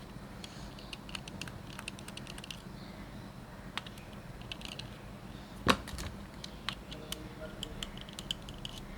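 Light, irregular clicks and taps of a small screwdriver working screws out of a Nikon D90 camera body, with one louder knock a little past halfway.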